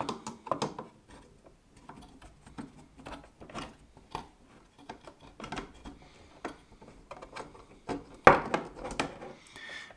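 Screws being undone with a small screwdriver on a plastic model locomotive, with light clicks and scrapes from handling the small parts, and one sharper knock a little past eight seconds.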